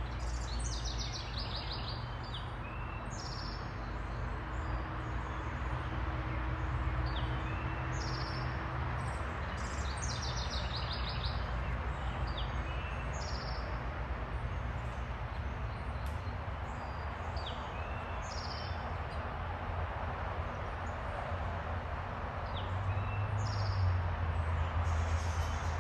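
Small songbirds chirping with repeated short high calls and a couple of quick trilled runs of notes, over a steady low rumble of background noise.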